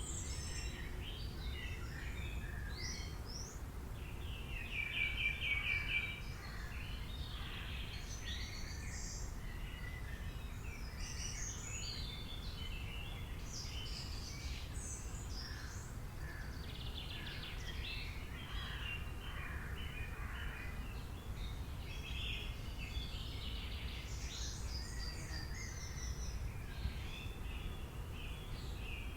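Several songbirds chirping and singing at once, with a fast, loud trill of repeated notes about five seconds in, over a steady low background rumble.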